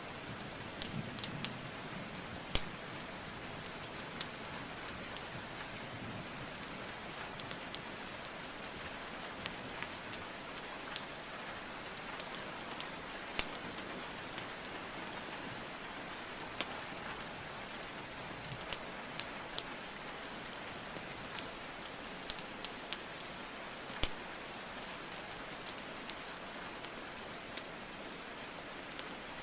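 Steady rainfall hiss with a wood fire crackling over it: sharp, irregular pops of burning logs, a few louder than the rest.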